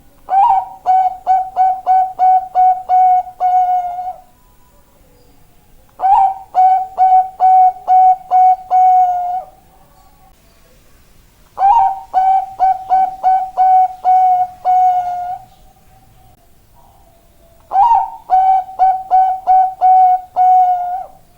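Bangkok-type zebra dove (perkutut) singing its cooing song four times. Each phrase is a quick run of about eight short notes ending on a longer held note, and the phrases come about every six seconds.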